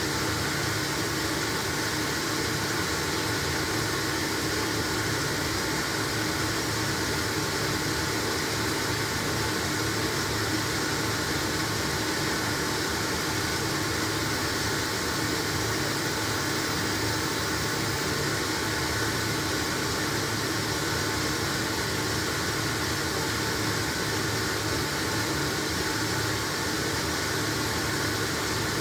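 LG washing machine running mid-cycle: a steady machine hum and whir with a few held tones over an even hiss, unchanging.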